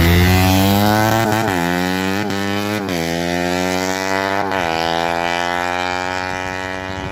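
Race-tuned 200cc Yamaha Jupiter four-stroke single underbone motorcycle engine running at steady revs after being revved, with four short throttle blips. Its sound slowly fades.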